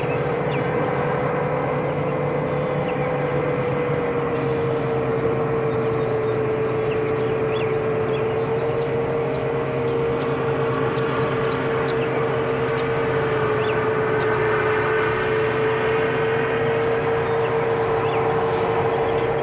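Five-inch FPV quadcopter's four brushless motors (T-Motor 2207.5, 2100KV) spinning tri-blade props in steady cruising flight. It gives a held, even whine that dips slightly in pitch about four seconds in.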